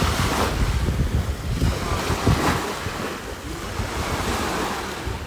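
Waves washing on a beach shore, swelling about half a second in and again about two and a half seconds in, with wind buffeting the microphone.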